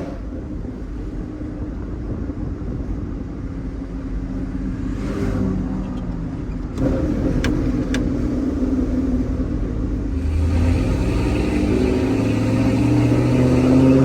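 Pickup truck engine running while driving, growing louder and rising in pitch as it accelerates over the last few seconds. Two short clicks come about halfway.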